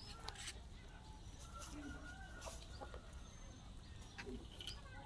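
Short, scattered animal calls, likely farm fowl, over a steady low rumble, with a few sharp clicks.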